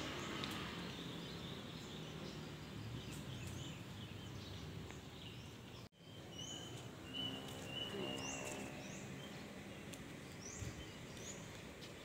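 Outdoor background noise with a low rumble; after a brief dropout about halfway, several short high bird chirps, each dropping in pitch, and a thin steady whistle lasting about two seconds.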